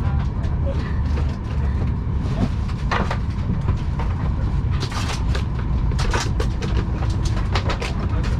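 Steady low cabin rumble inside a Boeing 737-800, with a faint steady whine and scattered sharp clicks and knocks, several of them in the second half.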